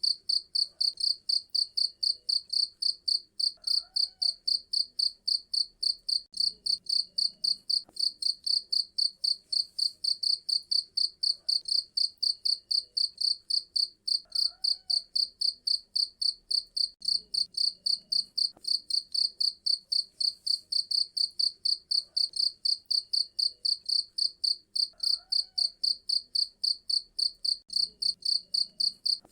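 Cricket chirping steadily: a loud, high-pitched chirp repeating evenly at about three times a second.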